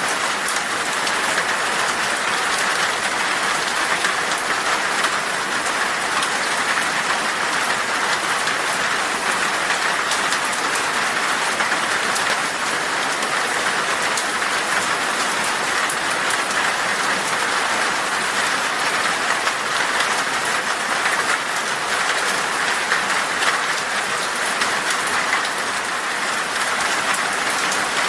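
Heavy rain pattering steadily on glass, with a dense hiss and fine drop ticks.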